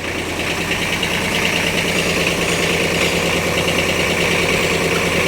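Kubota B1500 compact tractor's three-cylinder diesel engine running steadily while the tractor is driven in low gear, with the noisy transmission under investigation after a pilot bushing and seal replacement.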